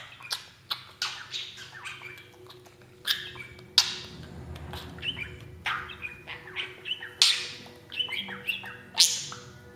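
Parrot squawking and chirping in many short, sharp calls, over a faint steady hum.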